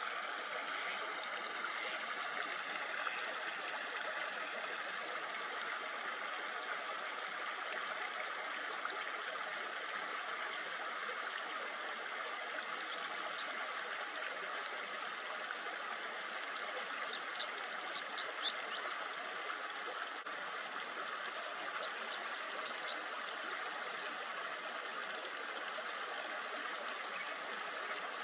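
Shallow river babbling steadily, with brief high-pitched chirps of small birds scattered over it, several in quick clusters toward the middle.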